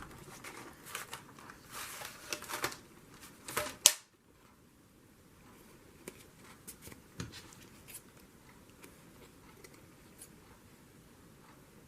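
Scissors snipping through paper, trimming a sliver off a freshly glued piece: a run of short snips over the first four seconds, the loudest just before the sound drops away sharply. After that, only faint scattered clicks of paper handling.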